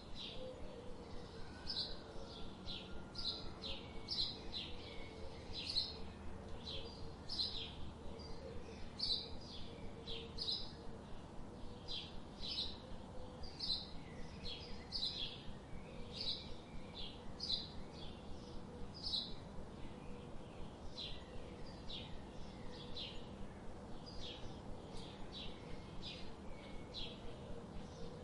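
Songbirds chirping: a steady stream of short, high chirps, a couple or more each second.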